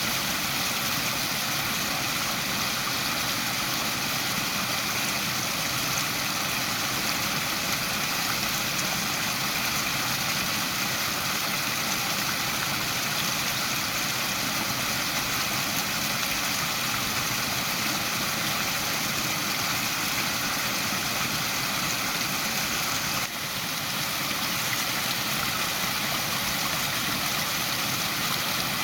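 Waterfall: water pouring down in a steady, even rush, with a brief dip in level about three-quarters of the way through.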